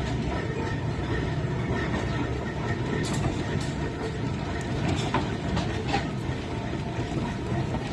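Fowler steam ploughing engine working: a steady mechanical rumble with a faint whine and a few sharp clicks and knocks.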